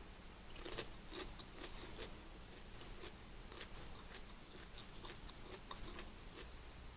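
Faint, close-up mouth sounds of someone chewing food, with soft irregular clicks and small crunches every so often.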